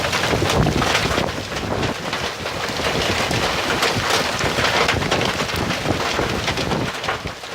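Heavy rain in a storm, with gusty wind buffeting the microphone in uneven surges.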